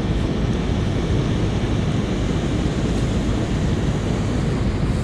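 Steady rushing noise of wind on the microphone and river current, with no distinct events.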